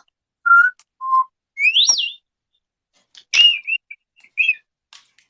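A parrot whistling a string of short notes: two plain whistles, then a quick whistle sliding upward, then a few more whistled notes and a short warble with a click among them.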